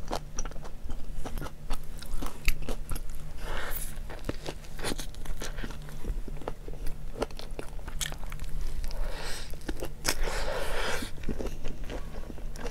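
Close-up chewing of a hot dog in a soft bun: a run of small wet mouth clicks and soft crunches, with a fresh bite near the end.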